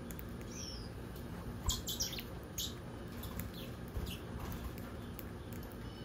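Small aviary birds giving short, scattered chirps, with a cluster of sharp clicks about two seconds in, the loudest sounds here.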